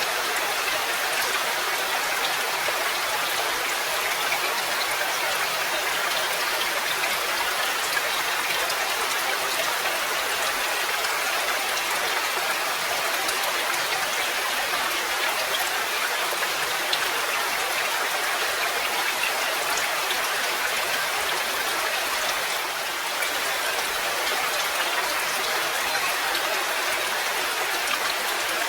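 Steady rain: an even hiss of many drops falling, unchanging throughout.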